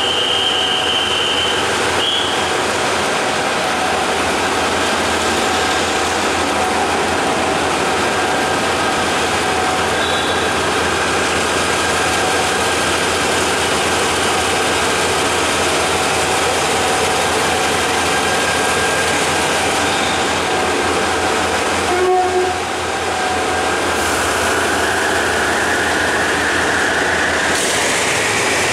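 Passenger train running along a station platform, a steady loud rumble of wheels on rails heard from an open carriage door. A high squeal comes in near the end as the train draws to a stop.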